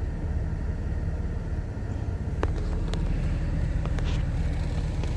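Car driving along a highway: a steady low road and engine rumble, with a few light ticks around the middle.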